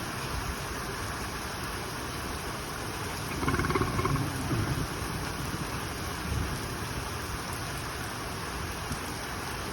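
Heavy rain pouring steadily. About three seconds in, a louder low rumble lasts a second or so.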